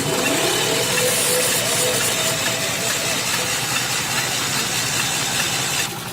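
A motor running steadily with a loud hiss. It starts suddenly and cuts off after about six seconds.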